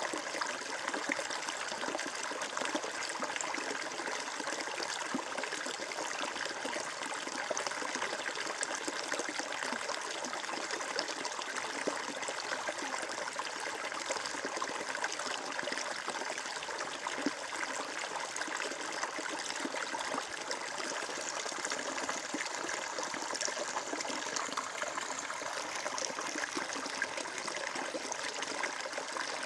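Shallow stream water flowing and trickling steadily, a continuous babbling splash.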